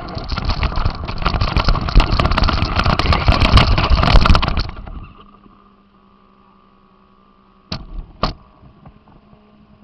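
RC car driving over rough ground, heard from its onboard camera: a loud, rough rattle of noise with many sharp clicks for about four and a half seconds, which then stops. A quiet steady hum follows, broken by two sharp knocks half a second apart near the end.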